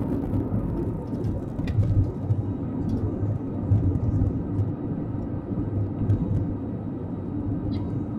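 Airliner cabin noise: a steady low engine drone heard from inside the cabin, with a few faint ticks.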